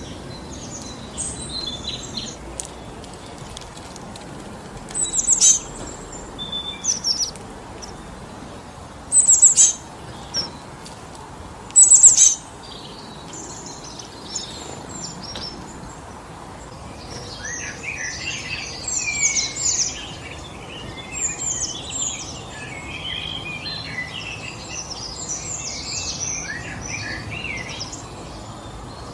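Wind blowing steadily through forest trees while small birds chirp: a few short, loud, high calls in the first half, then many birds chirping busily together through the second half.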